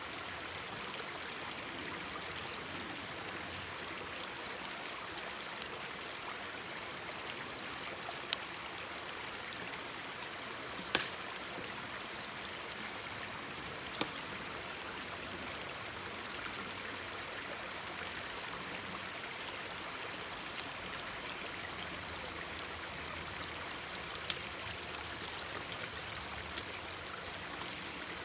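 Mountain stream babbling steadily, with a few sharp pops from a wood campfire crackling now and then, the loudest about eleven seconds in.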